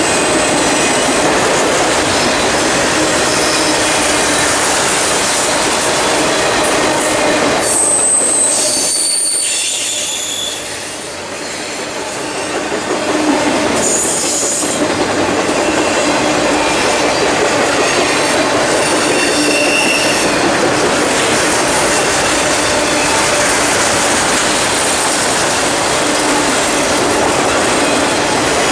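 Loaded autorack freight cars rolling past: a steady, loud rumble and clatter of steel wheels on rail, with short high-pitched wheel squeals now and then.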